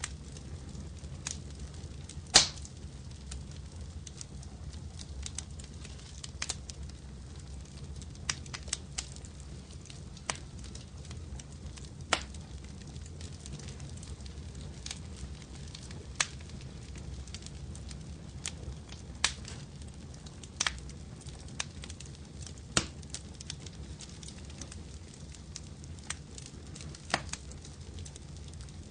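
Wood fire crackling, with irregular sharp pops over a steady low rumble of the flames; the loudest pop comes about two seconds in.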